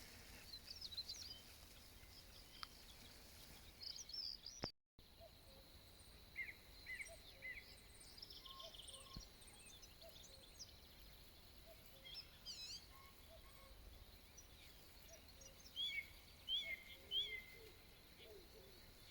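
Songbirds chirping and singing faintly, many short sweeping notes from several birds over a low steady background hiss. The sound drops out completely for a moment about five seconds in.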